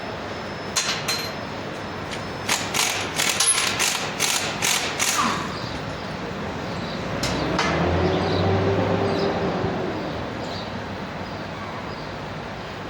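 A quick series of sharp knocks, like hammer blows, about ten of them, followed by a low hum that swells and fades a few seconds later.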